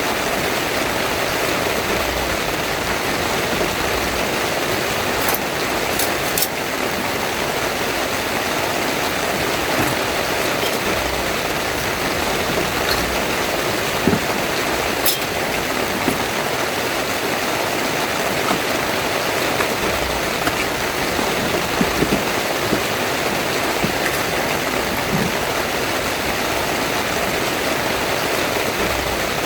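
Heavy rain pouring steadily on a tent, with a few sharper taps of single drops here and there.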